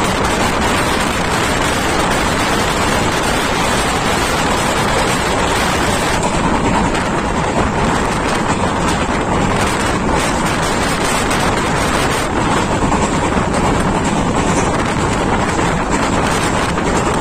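Steady rush of wind over the microphone on a moving train, mixed with the train's running noise.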